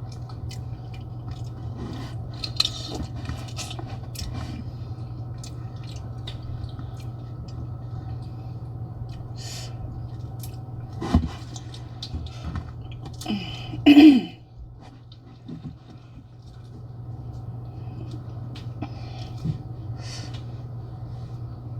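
Eating at a table: chewing and handling of food, with scattered small clicks and scrapes and a couple of louder brief sounds about halfway and two-thirds of the way through, over a steady low hum.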